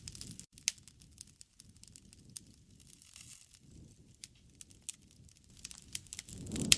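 Wood fire crackling, with sharp pops and snaps of burning wood at irregular intervals and a louder crack near the end.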